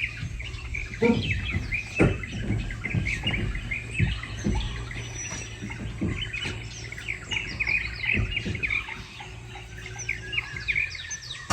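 A chorus of many birds chirping and calling, with rapid short chirps and falling notes overlapping throughout. A steady low rumble runs underneath, with a few dull knocks.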